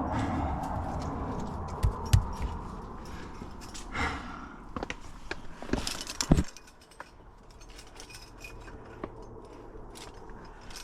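Metal climbing gear (carabiners and protection on a harness rack) clinking and jangling, with scrapes and knocks against rock. Sharp knocks come about two seconds and about six seconds in, and it goes quieter after that.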